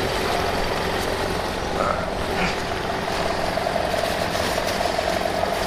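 BMW F800GS motorcycle's parallel-twin engine idling steadily.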